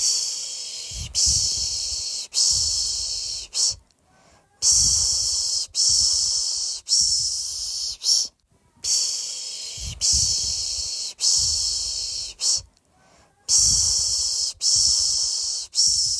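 A person making the Turkish "pış pış" shushing sound used to lull a baby to sleep: hissing "shh" strokes of about a second each, in runs of three or four, with a short pause for breath roughly every four and a half seconds.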